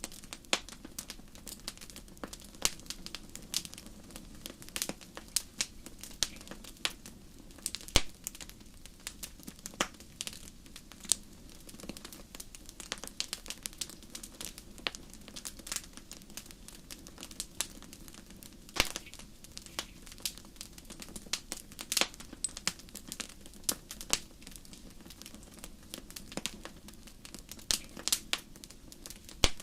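Wood fire burning in a fireplace, crackling with irregular sharp pops over a low, steady rush of the flames; a few pops stand out louder than the rest.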